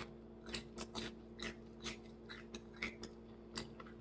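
Close-up chewing of burnt chicken: about ten short, wet smacks and crunches at an uneven pace. Underneath is a steady low hum.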